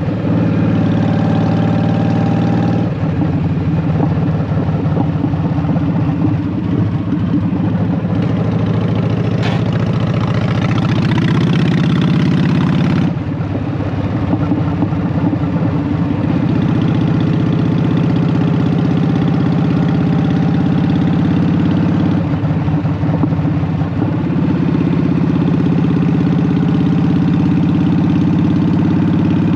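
Honda Shadow VT750's V-twin engine exhaling through Vance & Hines Short Shots pipes, running steadily. Its note changes a few times, with a short dip in loudness about halfway through.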